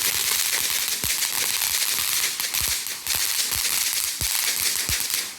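Lit ground firework spraying with a loud, steady hiss and scattered crackling pops, cutting off suddenly at the very end.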